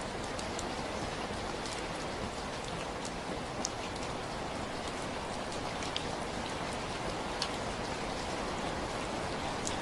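Steady rain falling, a dense even hiss with scattered sharper drop ticks standing out here and there.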